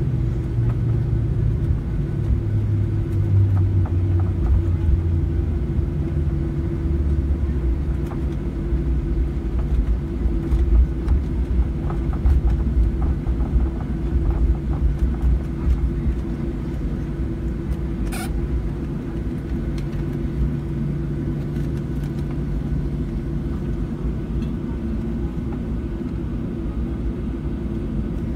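Boeing 737-700 jet engines and airframe rumble heard inside the cabin as the airliner slows on the runway after landing. The engine tone falls in pitch over the first few seconds as they spool down, then a steady low rumble continues with light cabin rattles and a sharp click partway through.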